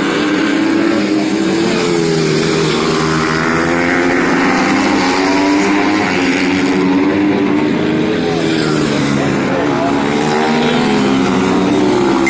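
Several small pit bike engines revving up and down together, their overlapping pitches rising and falling as the bikes accelerate and back off.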